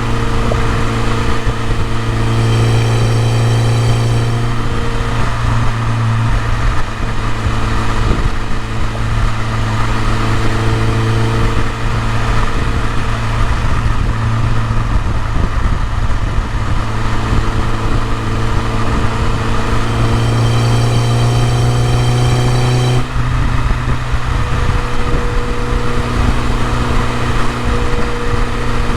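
BMW E30 M3's S14 four-cylinder engine running steadily, its pitch drifting slowly up and down. The engine note changes abruptly about six seconds before the end.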